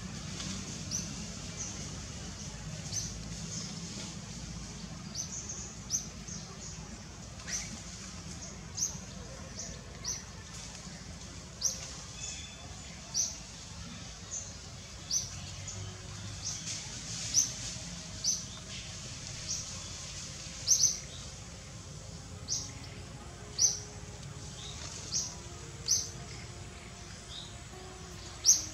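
A bird giving short, high chirps again and again, about one every second, some much louder than others, over a steady background of outdoor noise.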